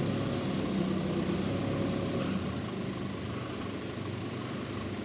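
An engine running steadily at idle, with an even, unchanging tone.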